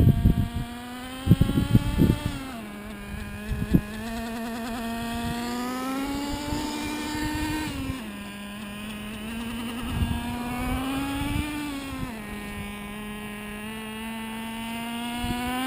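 The two-stroke nitro engine of a Traxxas T-Maxx 2.5 RC truck running at light throttle during break-in. Its buzzing pitch rises gently and falls back about four times as the truck is driven, with a few short low thumps.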